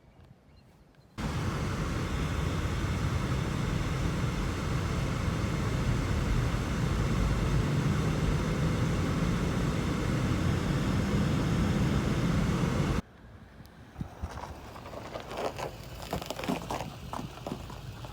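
Hurricane-force Taku wind rushing and buffeting the microphone. A loud, steady rush starts abruptly about a second in and cuts off suddenly. It gives way to quieter, gusty crackling.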